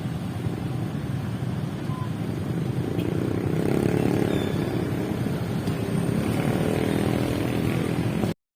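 Steady low rumble of background noise that swells briefly near the middle, with a few faint high bird chirps over it; the sound cuts off abruptly near the end.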